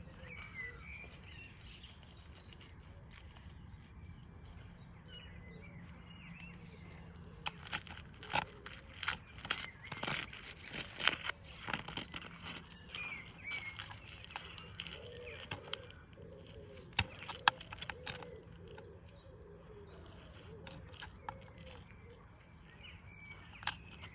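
Faint bird chirps, then a run of sharp clicks and knocks for several seconds in the middle, with a few more later.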